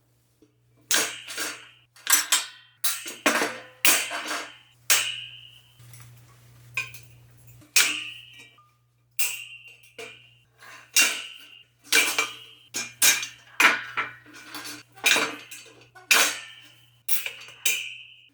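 Repeated metal clanks and rattles, roughly one a second and irregular, many with a short metallic ring, as a metal guard cage is worked loose and pulled off an air compressor.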